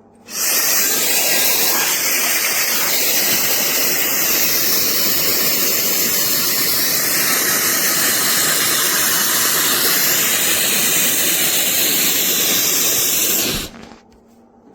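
Compact 1500 W ionic travel hair dryer running: a loud, steady rush of blown air that switches on just after the start and cuts off about a second before the end.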